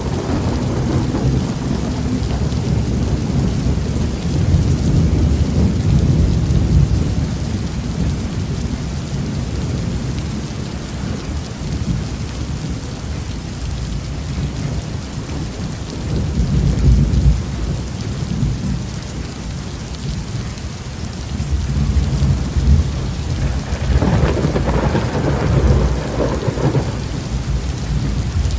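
Heavy rain falling steadily, with rolling thunder rumbling through it in several long swells, the last and brightest a few seconds before the end.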